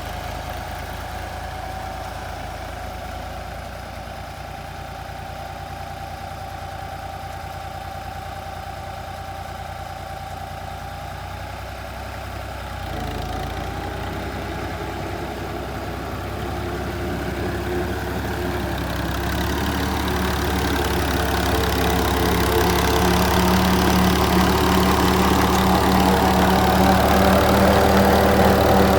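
Tractor engine running steadily, with a change in its sound about halfway through, then growing steadily louder and fuller toward the end.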